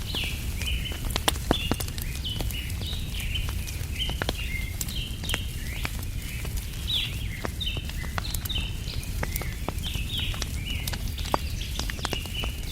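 Wood fire crackling with scattered sharp pops over a steady low rumble, while small birds chirp continuously with short, quickly repeated calls.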